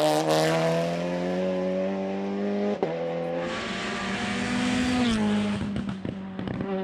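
Hillclimb race car's engine running hard at high revs with a sharp crack about three seconds in. Just after five seconds the note drops as the driver lifts, and a rapid series of pops and cracks follows on the overrun.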